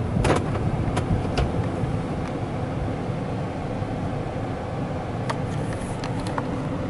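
A 2018 Chevy Tahoe running, heard from inside the cabin as a steady low rumble, with a few light clicks scattered through it.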